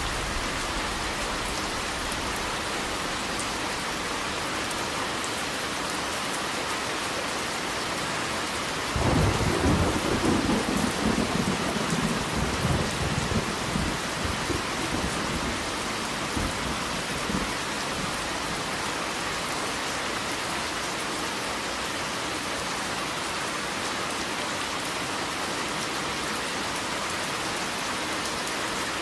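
Steady heavy rain falling, with a roll of thunder breaking in about a third of the way through and rumbling away over several seconds.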